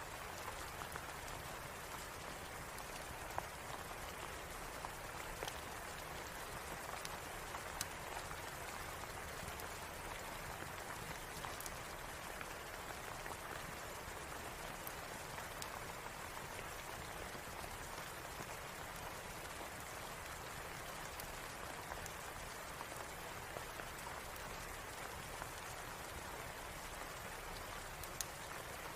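Steady rain falling, an even hiss with occasional sharp single ticks scattered through it.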